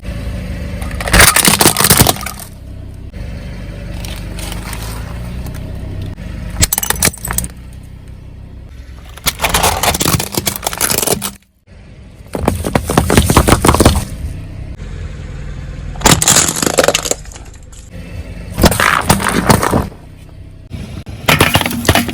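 A car's tyres rolling over and crushing brittle objects: several bursts of cracking and crunching, with the car's engine running low and steady in between.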